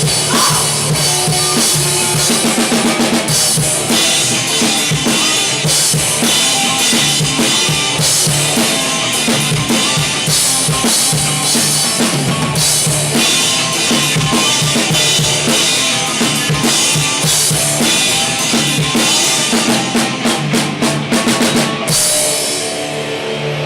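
Live band playing with a loud drum kit, bass drum and snare to the fore. Near the end a quick run of drum hits brings the music to a close, and it rings out.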